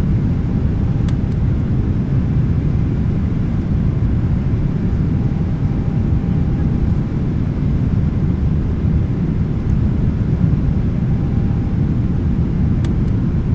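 Steady, loud cabin noise inside a Boeing 777-300ER in flight: the low rumble of its GE90 engines and the airflow, with a faint steady hum and a couple of light clicks.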